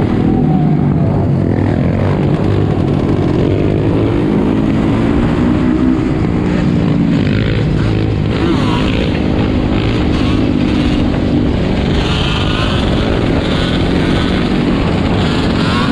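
Several four-wheeler (ATV) and motorbike engines running together, revving up and down over one another in a steady, loud din.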